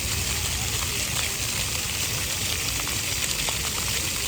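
Steady hiss of water spraying from splash-pad fountain jets.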